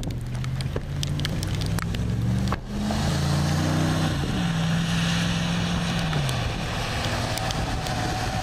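Vehicle engine running, its pitch stepping up about two and a half seconds in and sliding back down about six seconds in, over a steady wind hiss with scattered ticks.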